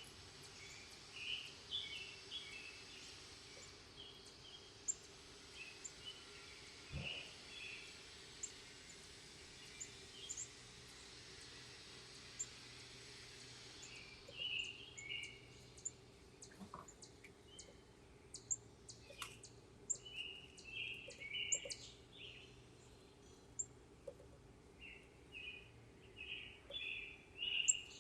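Small backyard songbirds giving many short chirps and calls, often overlapping, over a faint hiss that fades out about halfway through.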